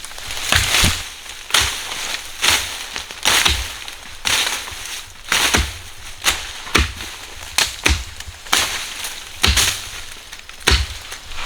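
Repeated sharp strikes of a hand tool, roughly one to one and a half a second and unevenly spaced.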